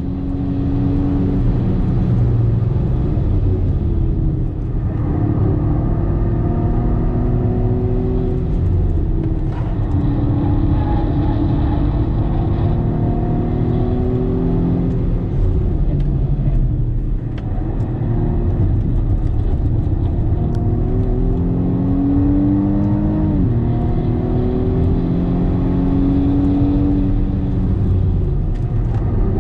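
BMW M135i xDrive F40's turbocharged 2.0-litre four-cylinder heard from inside the cabin under hard driving: the engine note climbs through the revs and drops back sharply at gear changes several times.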